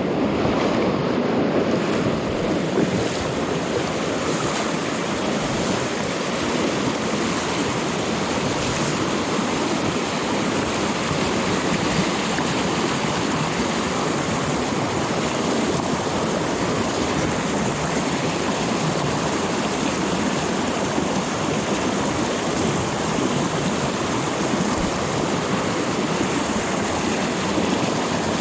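A trout stream running, giving a steady, unbroken rush of flowing water.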